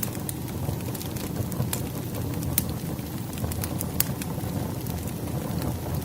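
Wood fire burning, a steady low rumble broken by scattered sharp crackles and pops of burning firewood.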